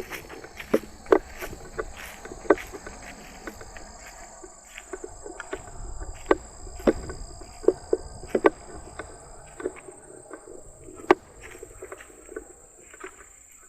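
Footsteps along a trail, irregular knocks and crunches about one or two a second, over a steady high-pitched insect drone.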